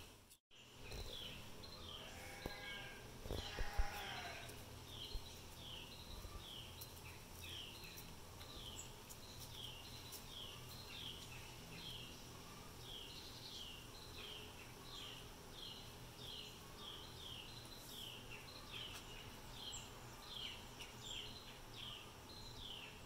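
A small bird repeats a short, high, downslurred chirp about twice a second, steadily throughout, over faint outdoor background. About three to four seconds in there is a brief louder knock-like noise.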